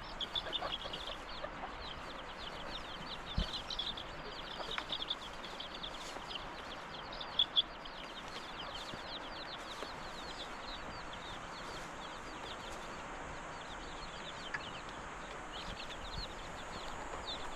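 Birds chirping: a dense run of short, high, falling chirps that thins out in the middle and picks up again near the end, over a steady rushing background. Two brief knocks sound about seven and a half seconds in.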